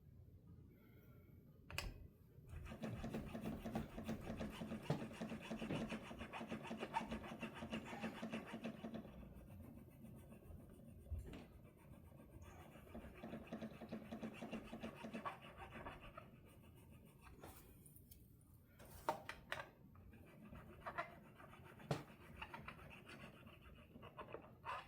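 Fret file scraping across a guitar's non-stainless frets to take down high spots, in two spells of rapid filing strokes, the first about two seconds in. A few light clicks follow near the end.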